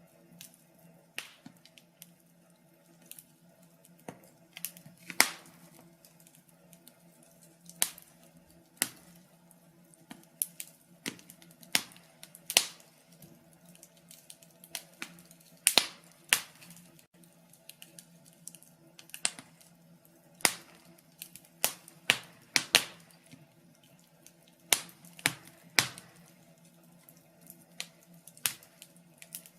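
Wood fire crackling in a fireplace: irregular sharp pops and snaps, a few louder than the rest, over a faint steady low hum.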